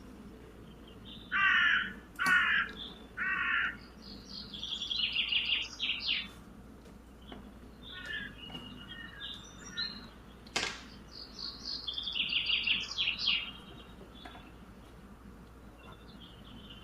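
Birds calling: three loud, harsh calls in quick succession, then bursts of higher-pitched chirping and twittering, with a single sharp click partway through.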